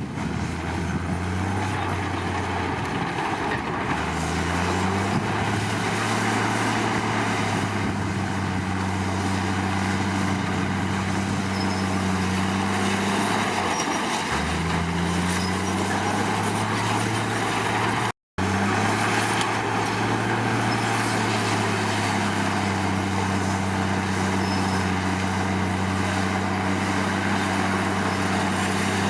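Komatsu D53 bulldozer's diesel engine working under load, its pitch sagging and then climbing back twice as it pulls, over a steady clattering din. The sound cuts out for an instant about two-thirds of the way through.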